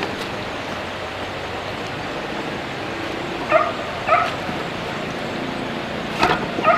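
Four short animal calls in two pairs, each pair about half a second apart, over steady background noise.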